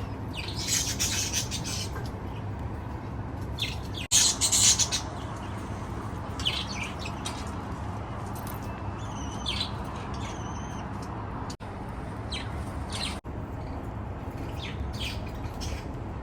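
Budgie chicks calling in short raspy, hissing chirps, in bursts with pauses between, and a few thinner warbling chirps near the middle.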